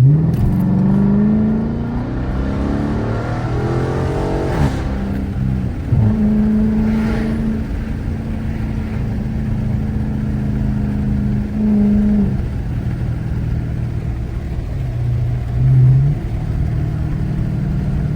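Car engine accelerating hard, its pitch climbing for about four seconds before dropping at a gear change. It then runs at a steady drone, with another shift and a brief rev later on.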